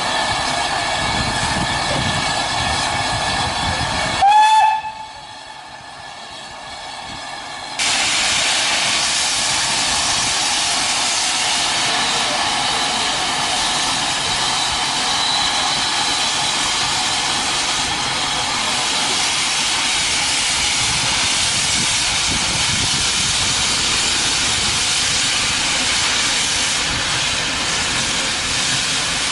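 Steam locomotive: a short whistle blast that rises slightly in pitch about four seconds in, then, after a quieter spell, a steady loud hiss of escaping steam from about eight seconds in.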